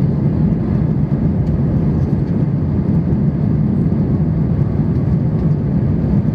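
Steady jet engine and airflow noise heard inside an Airbus A320 airliner cabin during the takeoff phase of the flight: a loud, even rumble with no changes.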